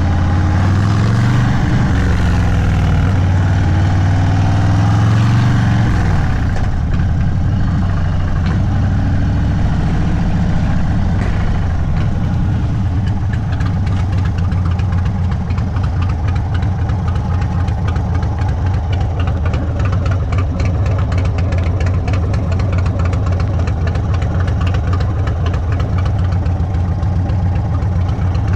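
Indian Sport Chief's Thunderstroke 116 V-twin through a Sawicki Speed exhaust, engine speed rising and falling twice, then settling to a steady idle about six seconds in.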